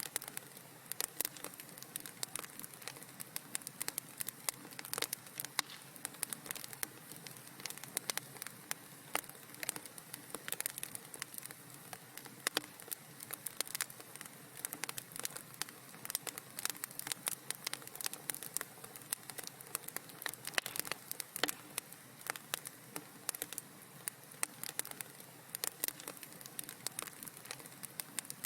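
Wood fire crackling in a fireplace: rapid irregular pops and snaps over a soft steady hiss.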